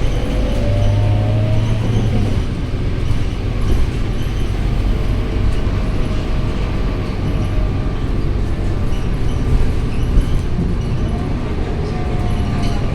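Scania K230UB single-deck bus running, heard on board: a steady low engine drone with road noise, and a faint rising whine in the first couple of seconds.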